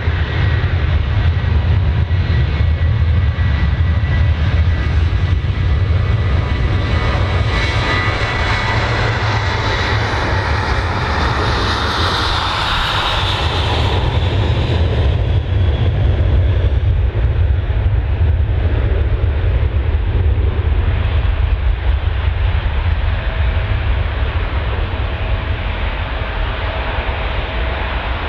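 Jet airliner's engines as the aircraft passes. A deep rumble runs throughout, and a rushing roar swells to a peak about twelve seconds in, then fades away.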